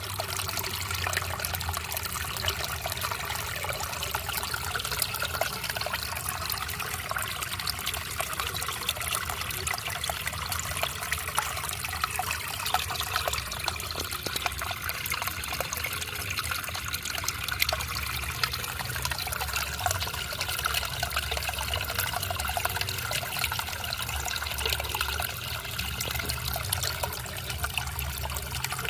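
Water trickling and splashing steadily, with a low rumble underneath.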